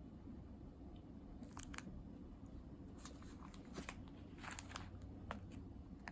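Green coffee beans handled by hand: scattered light clicks and crackly rustles, in small clusters over a faint steady hum.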